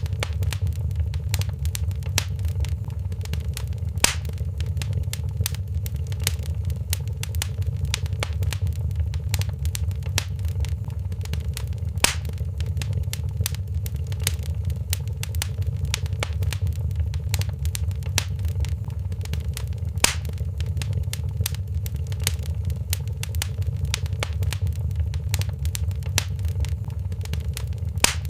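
Wood fire crackling in a fireplace: a steady low rumble of burning with frequent small snaps, and a few louder pops spaced several seconds apart.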